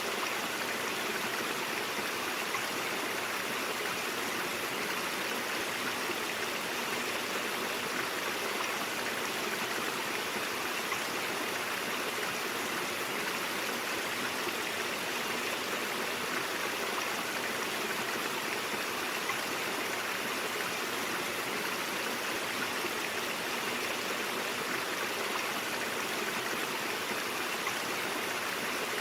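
Stream water flowing in a steady, even rush, unchanging throughout.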